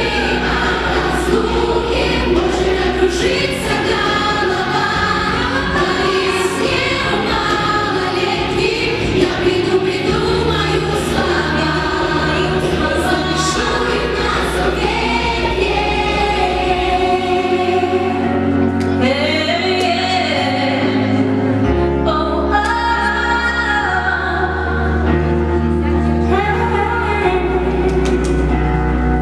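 A choir or vocal ensemble singing over a loud backing track with sustained bass notes.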